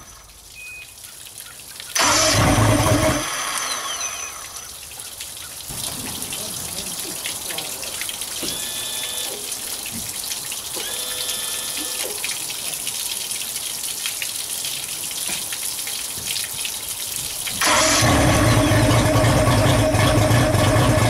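Johnson 150 V6 two-stroke outboard being cranked on its electric starter: a short burst of cranking about two seconds in, and a longer, sustained attempt starting near the end. Between the attempts there is a steady hiss of running flushing water. This is an engine unstarted for about ten years, which the owner suspects has carburetor problems.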